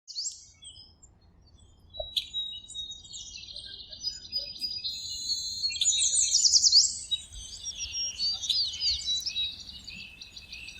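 Several birds chirping and singing: short high chirps, rapid trills and quick up-and-down calls overlapping one another, busiest and loudest about halfway through.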